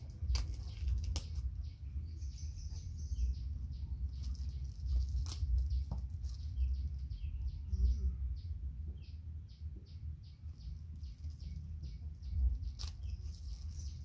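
Small birds chirping, many short high chirps scattered throughout, over a steady low rumble, with a few sharp clicks a second in, about five seconds in and near the end.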